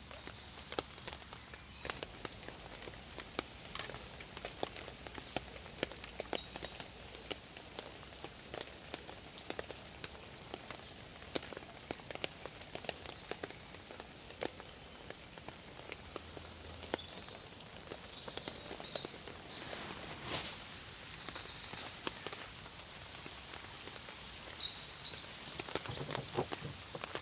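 Steady rain, with many single drops ticking irregularly on a hard surface.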